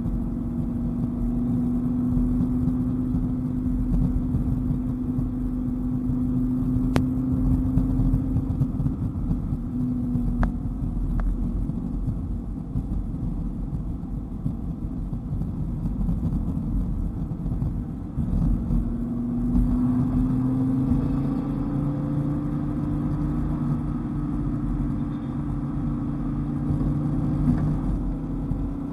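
Dodge Viper GTS's V10 engine pulling along at speed over steady road and tyre rumble; its note eases off about ten seconds in, then climbs again as the car accelerates near twenty seconds.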